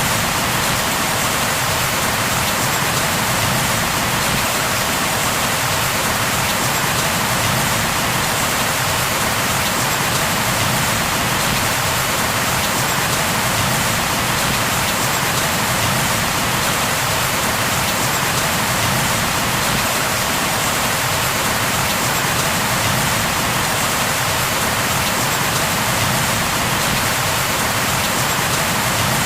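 Rain falling steadily: an even, unbroken hiss that holds the same level throughout.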